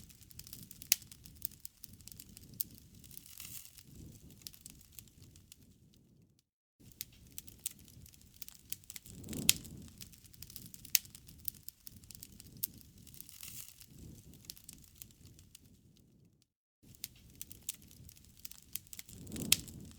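Campfire crackling: wood snapping and popping in irregular sharp cracks over a soft low rumble of burning. It cuts out to silence briefly twice, a little past 6 seconds and near 16 seconds in.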